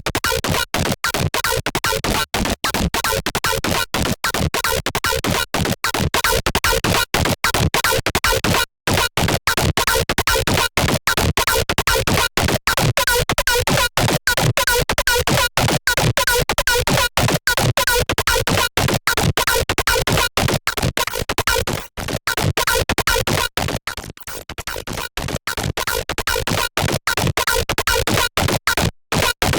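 A patch from the Serum wavetable synthesizer playing a noisy, rapidly stuttering electronic tone, chopped many times a second, with a brief dropout about nine seconds in. The wavetable was built from an AI-generated image.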